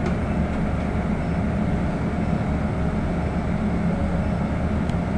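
Steady running noise inside a moving city bus, the drone of the drive and road heard in the passenger cabin, with a faint click near the end.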